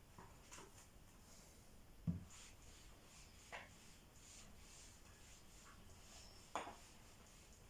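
Near silence in a small room, broken by a few faint scratchy strokes, a soft low knock about two seconds in, and a short sharper stroke near the end.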